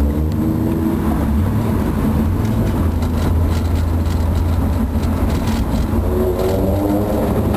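Toyota Celica LB's bored-out 2T-G twin-cam four-cylinder engine running through its aftermarket muffler, a deep steady exhaust note. Its pitch rises briefly about six seconds in.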